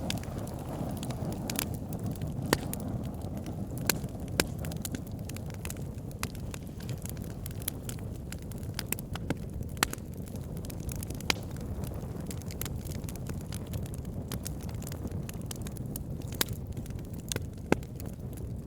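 Wood fire burning: logs crackling, with frequent sharp, irregular pops over a steady low rushing of the flames.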